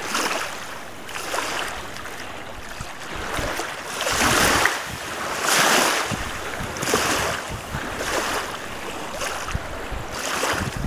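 Wind-driven lake waves splashing in a rushing rhythm of swells about every second or so, loudest about four and six seconds in. Gusting wind rumbles on the microphone throughout.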